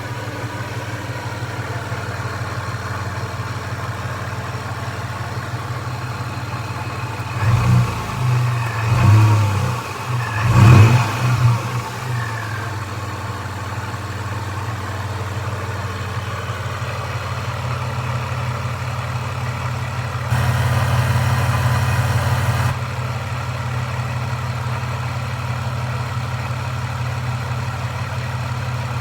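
Supercharged Toyota 3.4-litre V6 idling steadily, with a few short louder swells about a third of the way in and a brief rise in noise about two-thirds through.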